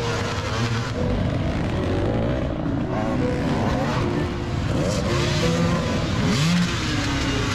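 Several enduro dirt bike engines running together, their revs jumping up and down in short bursts of throttle as they climb over logs, with a couple of rising revs near the end.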